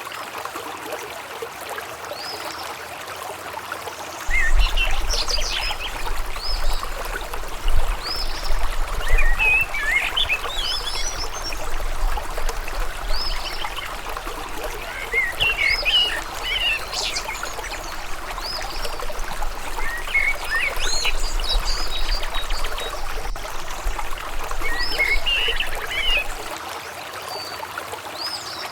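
River water flowing steadily, with birds singing in short bursts of chirps every few seconds over it. A low rumble comes in about four seconds in and drops out shortly before the end.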